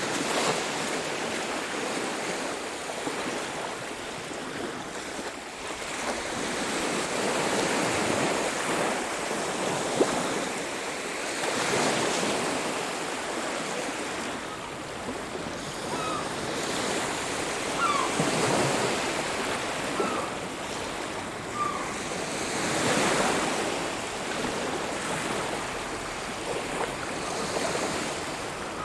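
Ocean waves breaking and washing on a beach, the surf swelling and easing every few seconds. A few short, faint bird calls come in over the surf in the second half.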